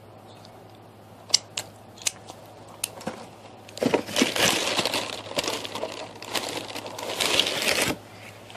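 Chicken in a Biskit crackers crunched while being chewed close to the microphone, played backwards. A few sharp clicks come first, then about four seconds of dense crackling crunch that cuts off suddenly.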